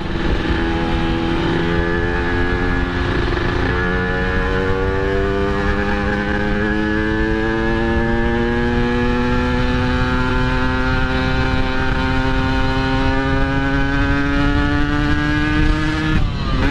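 Yamaha RX-King 135cc two-stroke single-cylinder engine pulling under load while riding. It revs up in quick steps during the first few seconds, then holds a long, slow rising climb in pitch, and dips briefly near the end as the throttle eases or a gear changes.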